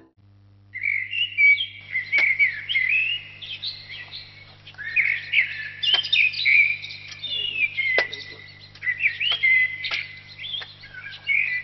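Many small birds chirping and twittering in quick overlapping calls, starting under a second in, over a steady low hum, with a few sharp clicks now and then.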